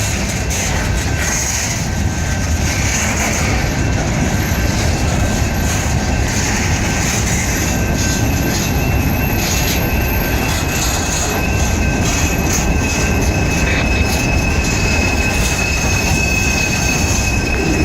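CSX freight train's cars rolling past, a steady heavy rumble of wheels on rail with a thin, high wheel squeal running through it.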